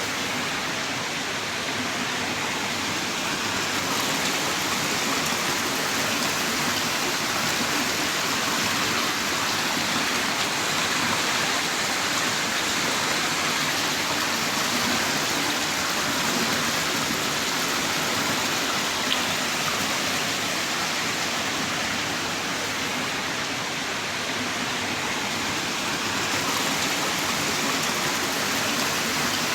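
Heavy rain downpour, a steady dense hiss of falling rain, with one brief faint tick about two-thirds of the way through.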